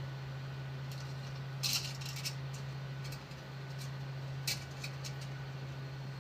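A few light clicks and rattles of small hard objects being handled, the loudest about two seconds in and again near the two-thirds mark, over a steady low hum.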